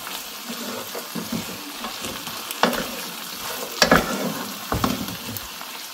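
Chunks of grilled goat meat in onion and pepper sauce sizzling in a sauté pan while a wooden spoon stirs them. The spoon knocks against the pan a few times, most clearly at about two and a half and four seconds in.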